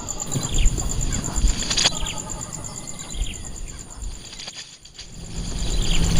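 Small birds giving short, high chirps at irregular intervals, over a steady high pulsing buzz.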